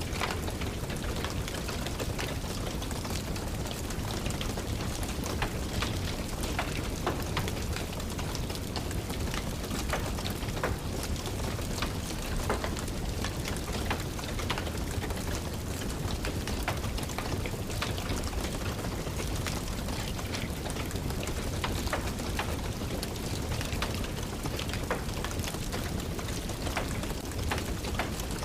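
Steady rain with a low rumble, mixed with frequent short sharp crackles and pops from a wood fire in a fireplace.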